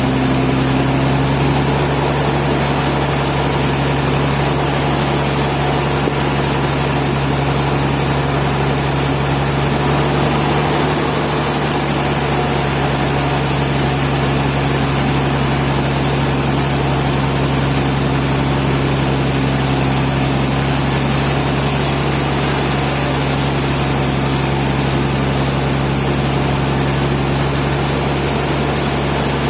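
Sawmill engine running steadily with a constant hum that holds one pitch throughout.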